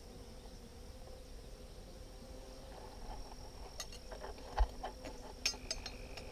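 Honeybees humming steadily from an open hive. In the second half come a run of short clicks and knocks, the loudest a dull thump, from wooden hive frames being handled.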